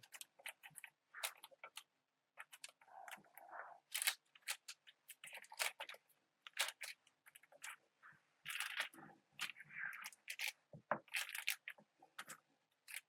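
Faint, scattered crinkles and light taps of parchment paper and a cup as mashed potato is pressed and shaped into nests on a sheet pan, with a few brief rustles.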